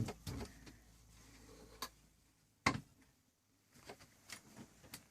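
A few short clicks and knocks, the loudest about two and a half seconds in, as the cover is taken off a Singer 16K33 tailor's sewing machine to open up its works.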